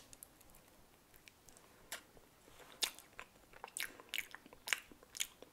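A mouthful of soft sliced banana being chewed: faint, scattered mouth clicks, few at first and closer together in the second half.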